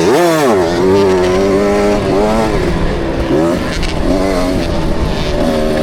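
KTM SX65 two-stroke motocross engine heard from the rider's helmet, its revs rising and falling with the throttle. There is a quick rev up and back down at the start, then steadier running with several smaller climbs and dips, over wind and track noise.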